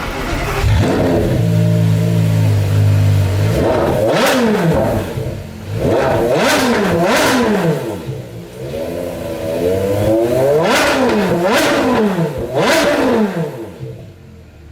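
Porsche Carrera GT's 5.7-litre V10 starting under a second in and idling briefly. It is then blipped to sharp revs about six times, each rising quickly and falling back to idle.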